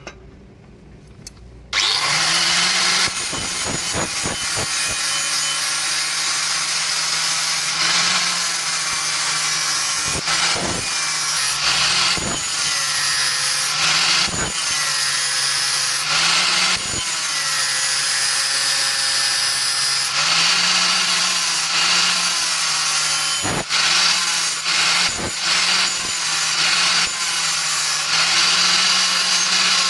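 An electric power tool starts up about two seconds in and runs under load. Its motor pitch sags and recovers again and again as it bites into the work, with a few brief breaks.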